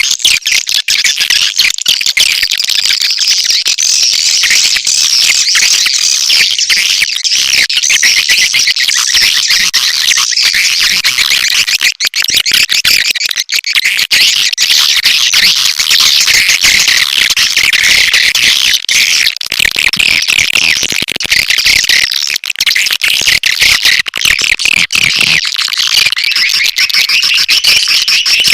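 Swiftlet lure call: a dense, continuous chorus of high twittering swiftlet chirps, the kind of sound played to draw swiftlets into a nesting house.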